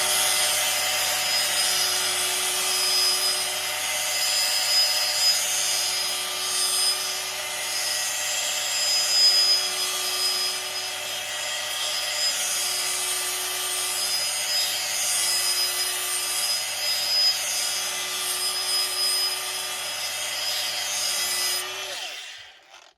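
Angle grinder with an 80-grit flap disc grinding a fresh edge on a dull steel axe blade: a steady motor whine under a rasping grind that swells and eases as the disc is worked back and forth. The grinder switches off near the end.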